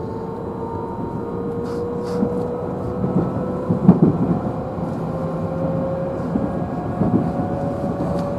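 Inside the motor car of a JR Central 311 series electric train: the traction motors whine, rising slowly in pitch as the train gathers speed, over a steady rumble of running noise. A few rail-joint clacks come around four seconds in and again near seven seconds.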